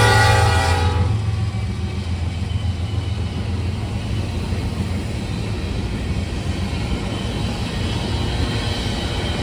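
Diesel locomotive air horn sounding a chord that cuts off about a second in, followed by the steady low rumble of the passing train.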